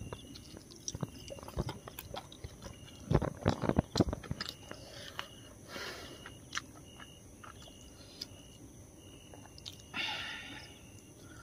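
Someone chewing and biting food close to the microphone: scattered crunches and small mouth clicks, densest about three to four seconds in.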